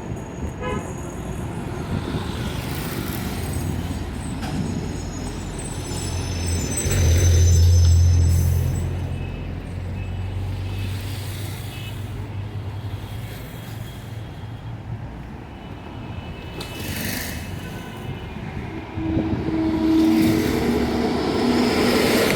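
Busy road traffic, with cars and trucks passing and a horn tooting. A heavy vehicle's low rumble is loudest about seven to nine seconds in.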